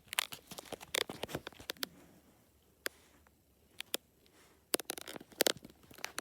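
Irregular sharp clicks and scratchy scuffling, a dog scrabbling about and playing with something on the floor. The clicks are dense for about two seconds, sparse for a while, then come in another quick flurry near the end.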